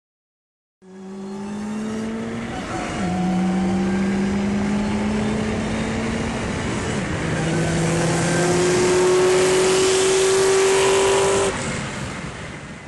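Car engine at full-throttle acceleration, its pitch climbing through each gear and dropping at the upshifts about 3 and 7.5 seconds in. It falls away sharply near the end.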